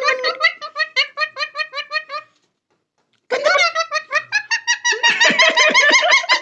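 High-pitched rapid laughing, about six or seven 'ha' pulses a second. It breaks off about two seconds in for a second of silence, then starts again.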